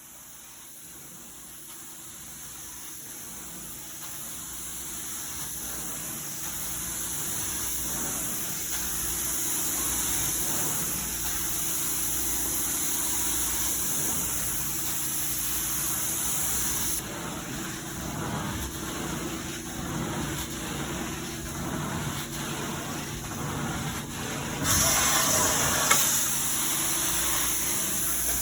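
Carpet-cleaning machine running: a steady hiss of rushing air over a low motor hum. It grows louder over the first ten seconds, shifts about two thirds of the way in, and swells briefly near the end.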